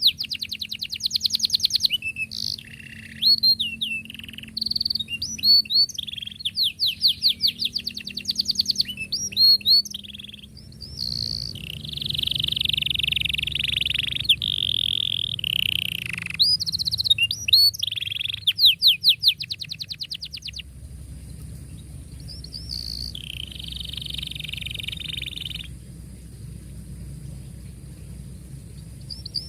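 Domestic canary singing a long song: rapid rolling trills and chirps in the first half, a stretch of held buzzy notes near the middle, then more trills and quieter phrases towards the end.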